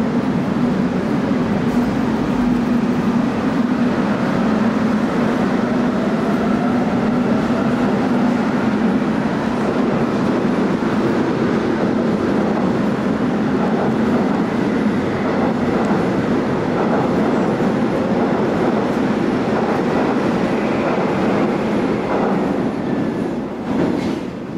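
Korail Line 1 electric train pulling out of an underground station: a steady rumble of wheels on rail with a faint rising motor whine as it gathers speed. It fades near the end as the train moves off into the tunnel.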